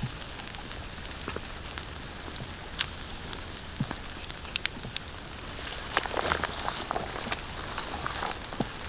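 Raindrops falling on a tarp shelter: scattered single drops tapping over a steady rain hiss, becoming a denser patter of taps from about six seconds in.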